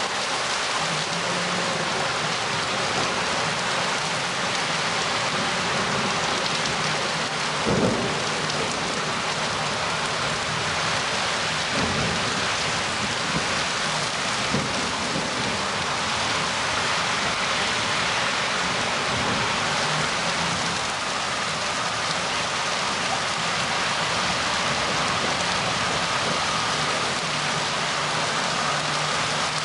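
Steady rain falling in a thunderstorm, with a sharp crack of thunder about eight seconds in and two fainter ones a few seconds later.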